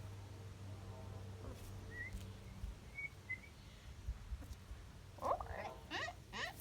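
Chickens calling: a few short pitched calls that bend up and down near the end. Earlier there are a few faint high chirps over a low steady hum that fades out about two and a half seconds in.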